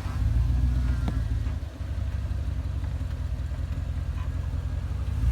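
Off-road 4x4's engine idling steadily with a low rumble, dipping briefly about two seconds in.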